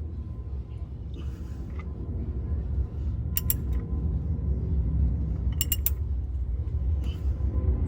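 Two short runs of three or four sharp mechanical clicks, about two seconds apart, over a steady low rumble.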